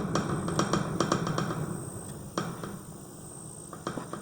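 Beekeeper's smoker being worked to get the pine-needle fuel burning: quick puffing clicks about twice a second, thinning after a second and a half to a few separate clicks.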